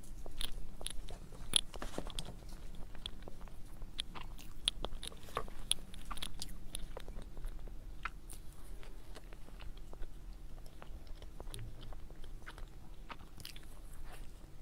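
A person eating a soft dessert close to the microphone: bites and chewing, with many small irregular mouth clicks and smacks.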